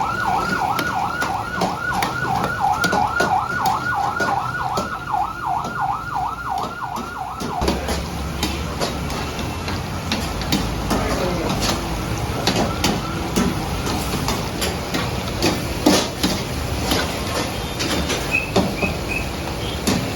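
A siren-like electronic wail that sweeps up and down about three times a second, stopping abruptly about seven seconds in. A low rumble with scattered clicks and knocks follows.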